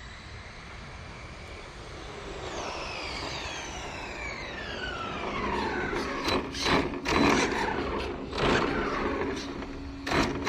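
Electric RC drag car's brushless motor and drivetrain whining, the whine falling steadily in pitch for a few seconds as the car slows down. This is followed by several short bursts of rough noise.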